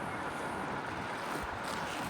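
Steady, even rushing noise of distant jet aircraft at the airport.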